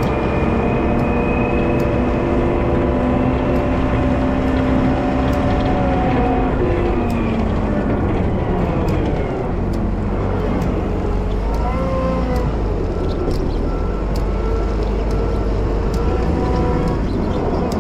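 Wheel loader's diesel engine running, its pitch dropping about six seconds in as the revs come down, then running steadily. From about twelve seconds in, a regular series of short beeps at one pitch, typical of a reversing alarm.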